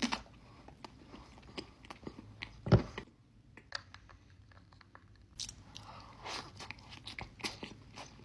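A person biting into and chewing a cupcake sandwich close to the microphone, with scattered short mouth clicks and one louder bite about two and three-quarter seconds in.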